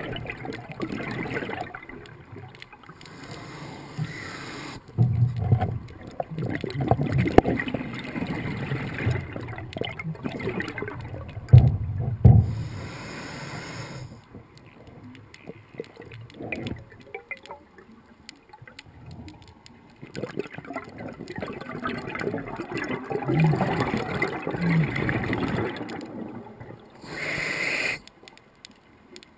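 Scuba diver's exhaled bubbles gurgling and rushing underwater in bursts of several seconds, with quieter gaps between them.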